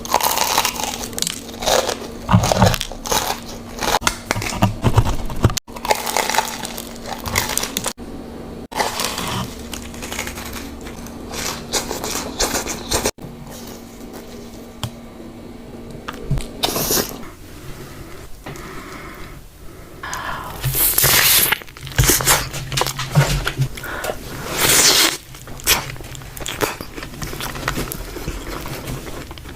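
Close-miked crunching bites and chewing of a fried, batter-coated corn dog, in repeated crackly bursts broken by a few abrupt cuts.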